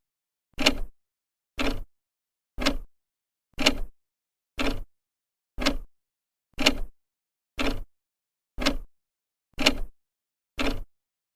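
An old clock ticking steadily, its second hand advancing once a second.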